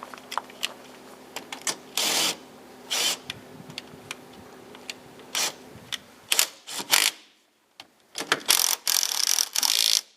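Hand tools working on a car wheel during a tyre change: scattered mechanical clicks and several short loud bursts, the longest lasting nearly two seconds near the end.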